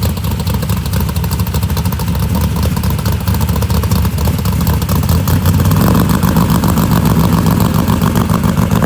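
V8 engine of a Chevy LUV pickup running loudly with a rapid, dense exhaust pulse. It grows a little louder about six seconds in.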